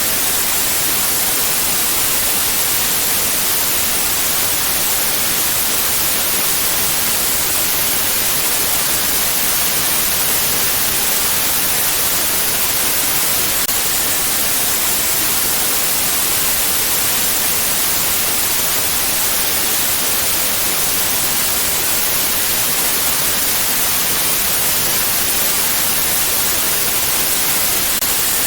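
Steady white noise, a constant even hiss strongest in the high frequencies, with no change in level or texture.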